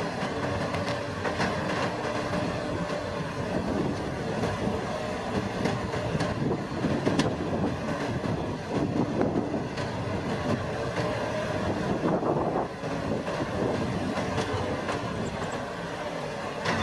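Rice harvesting machine running steadily: a continuous engine drone with dense mechanical rattling and clatter.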